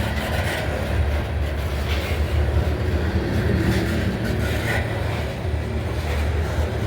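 Coal train led by diesel locomotives rolling by with a steady low rumble of engines and wheels on the rails.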